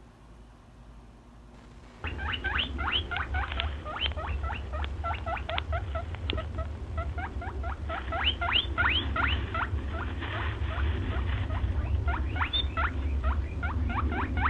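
A small animal squeaking rapidly: short high squeaks, several a second, starting about two seconds in over a low rumble.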